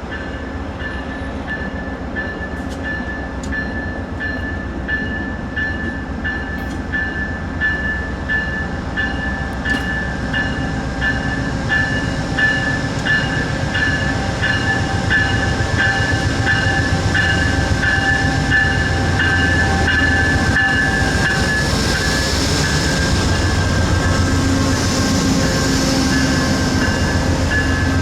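A train passing, its low rumble growing louder, with a steady high ringing tone that pulses a little under once a second and drops slightly in pitch about three quarters of the way through.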